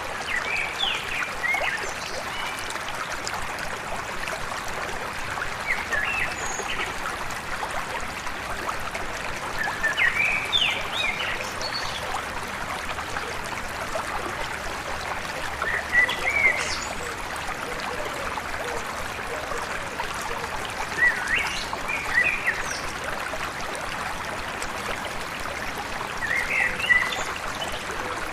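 Stream running steadily, with an animal's short chirping calls recurring about every five seconds.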